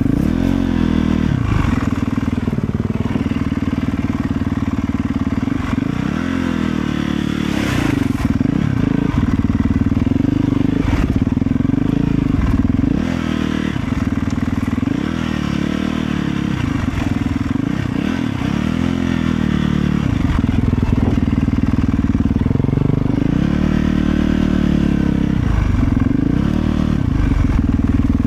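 Motorcycle engine running under way, its revs rising and falling again and again as the rider accelerates and eases off, with a brief knock about eight seconds in.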